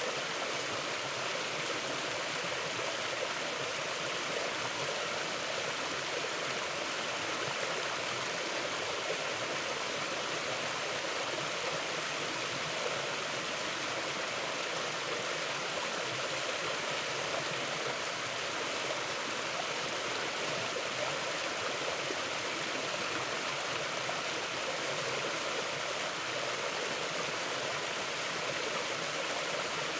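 Mountain river flowing steadily: a continuous, even rush of water over rocks with no breaks or changes.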